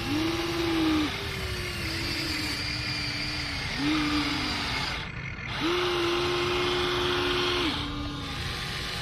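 Small electric motors of radio-controlled construction models whining in a series of short runs, each one starting and stopping with a quick glide in pitch. There is a brief pause about five seconds in.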